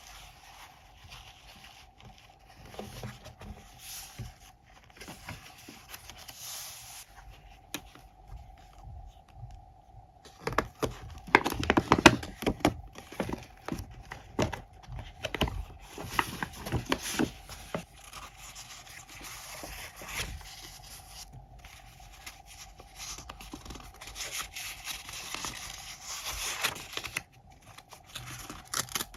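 Paper and stationery handled at close range for scrapbooking: rustling, scraping and light taps, with a louder run of taps and crinkles about eleven to thirteen seconds in.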